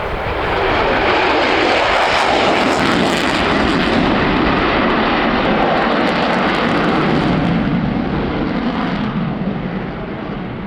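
Lockheed Martin F-22A Raptor's twin F119 turbofan jet engines roaring past, building over the first second, crackling for a few seconds, then fading and dropping in pitch as the jet moves away.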